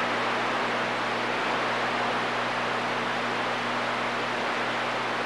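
CB radio receiver hissing with static on an open channel between transmissions: a steady, even hiss with a faint low hum underneath.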